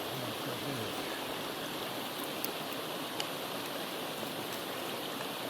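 Steady rushing of a small stream flowing over rocks, with a couple of faint sharp ticks about halfway through.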